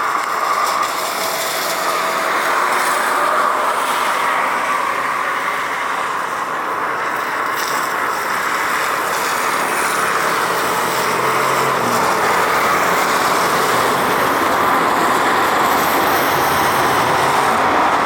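Jet engine noise from a Boeing 777-300ER airliner's GE90 engines as it lands: a steady rushing noise that grows slowly louder.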